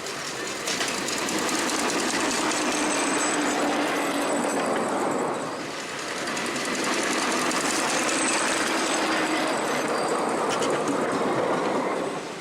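Miniature railway train running on the track, a rapid, even clatter that dips about five and a half seconds in, then returns to full level until just before the end.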